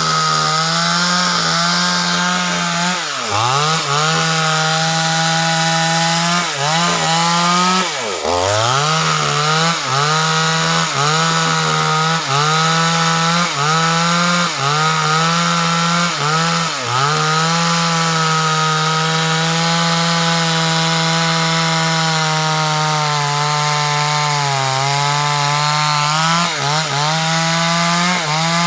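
Two-stroke chainsaw running at high revs while cutting wood. Its engine note sags briefly and recovers over and over, most deeply about three and eight seconds in, then holds steadier for a long stretch.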